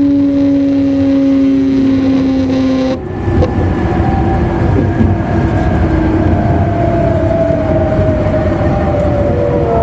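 E259 series electric train's traction motors and inverter whining inside the motor car over the rumble of the wheels on the rails, the pitch slowly falling as the train slows. About three seconds in, the clear whine cuts off and gives way to rougher running noise with several fainter tones that keep gliding down.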